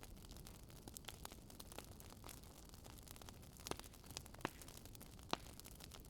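Wood fire burning in a fireplace: a soft steady hiss with irregular crackles and pops, three sharper pops standing out in the second half.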